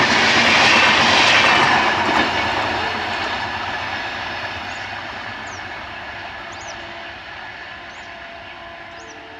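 Amritsar-Indore Express passenger train running slowly past, its wheels rattling over the rail joints. The noise fades steadily from about two seconds in as the train moves away.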